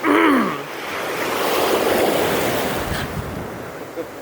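Ocean surf: a wave washes in, rising to its loudest about two seconds in and then slowly falling away. A short exclamation with a falling pitch opens the moment.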